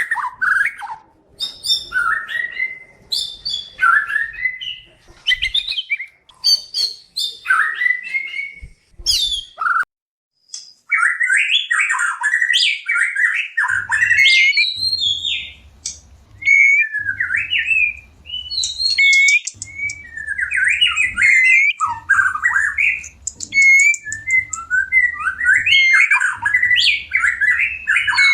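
White-rumped shama (murai batu) singing a fast, varied stream of whistled and chattering phrases, the song of a shama in breeding condition. It breaks off briefly about ten seconds in, and a faint low hum sits under the song in the second half.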